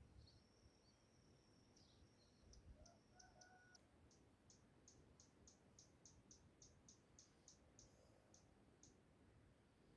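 Faint, high-pitched animal calls at dawn: a thin steady whistle for about two seconds, then a run of short high notes, about three a second, which stops near the end.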